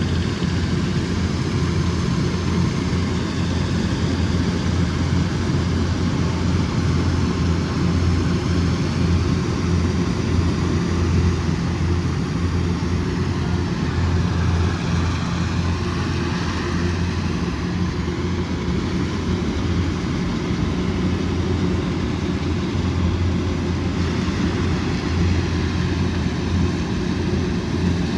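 Kubota DC108X combine harvester running steadily at work, a constant low engine drone with machinery noise over it.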